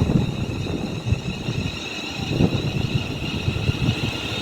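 Class 350 Desiro electric multiple unit pulling away from the platform: a steady high electric whine from its traction equipment over a low, uneven rumble of wheels on track.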